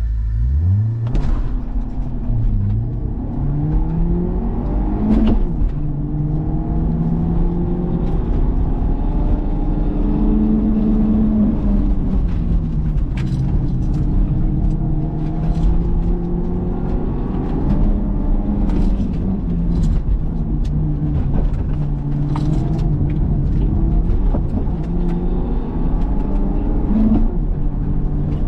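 A car's engine revving up and dropping back again and again as it accelerates and lifts off between slalom gates, with a steady low rumble underneath. It picks up sharply in the first second.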